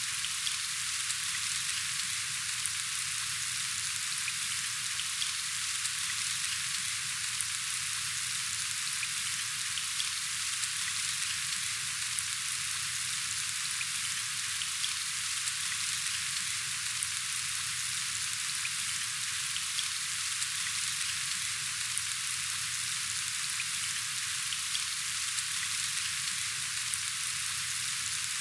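Steady rain falling, an even hiss of countless small drop ticks.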